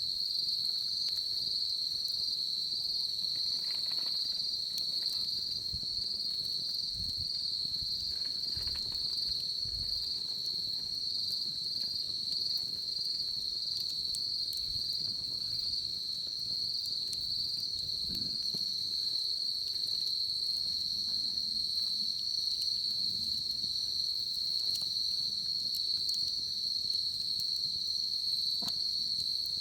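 Crickets chirping in a steady, high, fast-pulsing trill that never stops. Faint scattered crackles and pops come from a wood bonfire beneath it.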